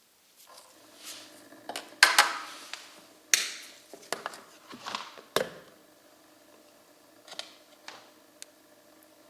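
Metal parts of a bench oil-film test machine being handled, with a run of sharp clinks and knocks. The loudest come in the first half, fainter ones follow near the end, and a steady low electric hum runs underneath.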